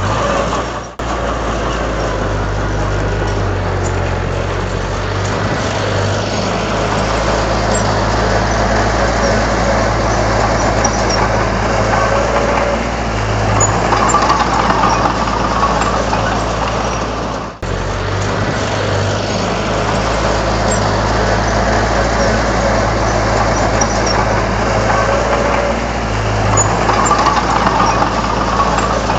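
Komatsu D31 bulldozer's diesel engine running with a steady low hum, swelling louder twice, a little before the middle and again near the end. The sound cuts out for an instant about a second in and again just past the middle.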